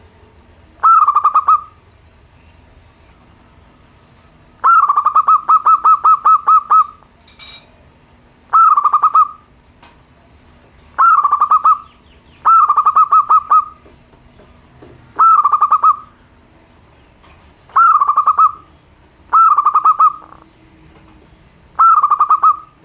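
Zebra dove (perkutut) cooing: a series of short song phrases every two to three seconds, each a rapid stuttering run of coos, with one longer phrase about five seconds in.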